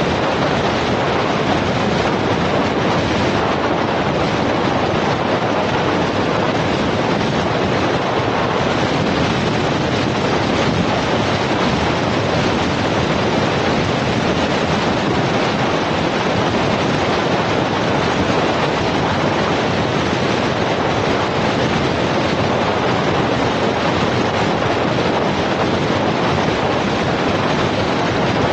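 Steady rush of wind and road noise on the microphone of a camera riding on a moving vehicle, even throughout with no distinct events.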